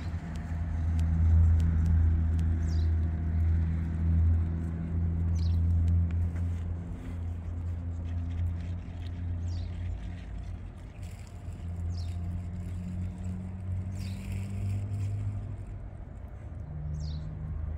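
A motor vehicle's engine running with a steady low hum, while a small bird repeats a short, high, falling chirp every two to three seconds.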